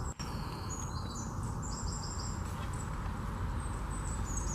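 Small birds chirping and singing in quick, high-pitched notes, over a steady low rumble.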